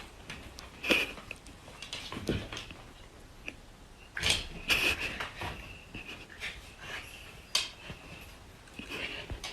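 Quiet sounds of a pet animal: breathy sniffs and snuffles with scattered soft clicks and knocks, and a faint thin squeak about a second in and again around four to five seconds.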